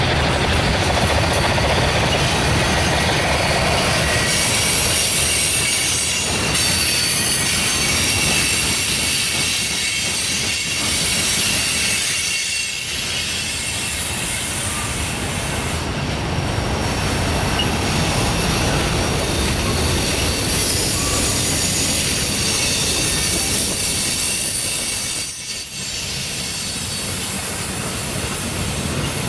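Freight train cars rolling past: a steady rumble of steel wheels on rail, with a thin, high-pitched squeal from wheel flanges on the curve.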